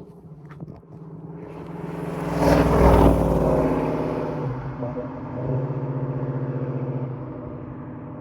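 Rebuilt Chevy 396 big-block V8 in a 1972 Buick Skylark accelerating, loudest about two and a half seconds in, then easing off. It picks up again briefly around the middle and settles into a quieter steady run near the end.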